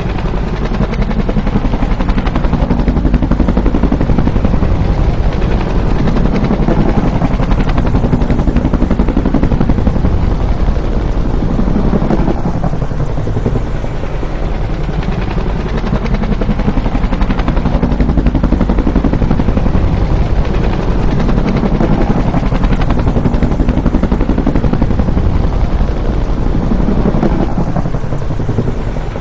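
Bell UH-1 Huey helicopter passing close, its two-blade main rotor chopping loudly over the turbine's whine. The sound swells and eases slightly about every fifteen seconds, with the pitch sweeping as it goes by.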